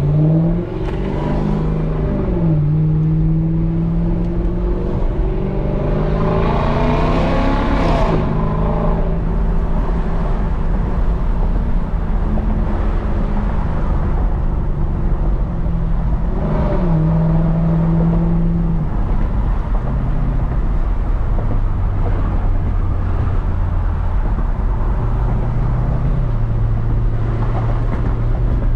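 Lexus SC430's 4.3-litre V8 through an X-pipe and straight pipes, pulling away and accelerating through the gears. The exhaust rises in pitch and is loudest about seven to eight seconds in, drops in pitch at an upshift about halfway through, then settles to a steady cruise.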